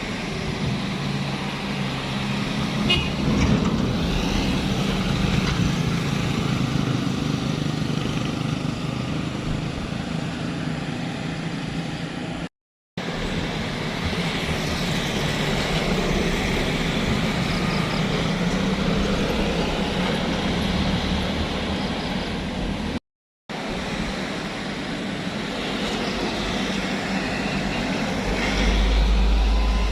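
Heavy truck engines running under load as trucks labour up a steep winding hill, heard in three clips broken by two brief silent cuts.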